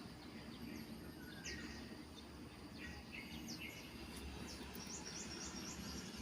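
Faint chirps of small birds, many short high notes coming in little runs, over a steady low background noise.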